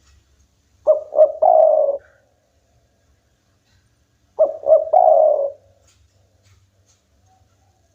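Spotted dove (tekukur) cooing twice: each call is two short notes followed by a longer, rolling coo, the second call about three and a half seconds after the first.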